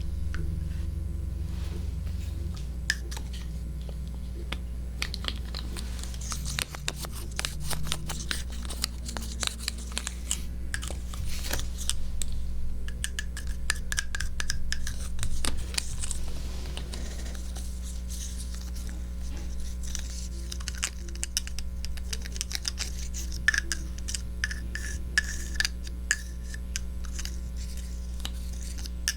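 ASMR trigger sounds close to a 3Dio binaural microphone: dense irregular clicking and crackling, busiest through the middle and again near the end, over a steady low hum.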